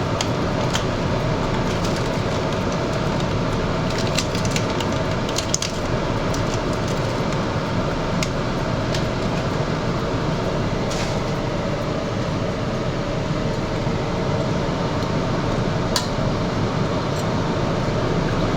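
Steady rushing noise of a kitchen stove running under a pot, with a few scattered light clicks and clinks as ingredients are dropped in.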